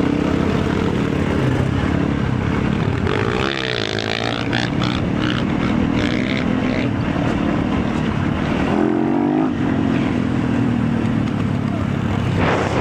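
Motorcycle engine running while riding, with wind noise over it. The engine note shifts in pitch about three and a half seconds in and again around nine seconds in.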